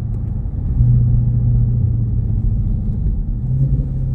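Dodge Charger Scat Pack's 392 HEMI V8 droning steadily at cruise through a new MBRP Street catback exhaust, with a low even rumble and no revving. The owner found this setup too quiet, calling it weak.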